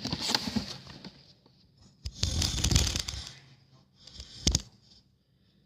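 Close rustling and scraping handling noise in two bursts, the second the louder, then a sharp click about four and a half seconds in.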